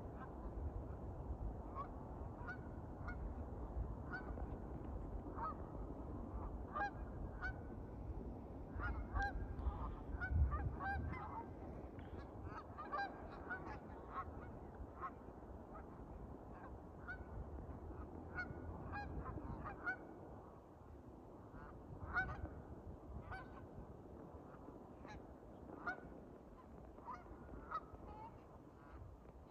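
Domestic geese honking, many short calls throughout, some close together. A low rumble runs underneath and dies away about two-thirds of the way through.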